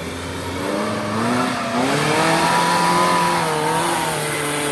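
Off-road vehicle engine revving: its pitch climbs between one and two seconds in and is held high with some wavering, under a steady hiss.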